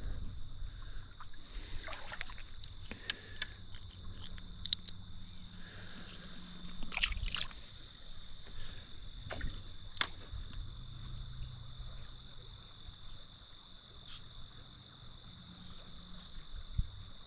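Insects chirring steadily in two high, unchanging tones over the trickle and slosh of creek water, with a few sharp clicks and knocks, the loudest about seven and ten seconds in.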